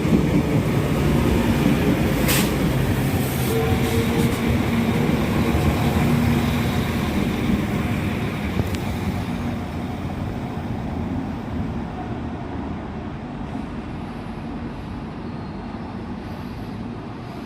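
Northern Class 195 diesel multiple unit running slowly alongside the platform, its engine and transmission hum sinking steadily as it eases to a stop. A single sharp clank sounds about two seconds in.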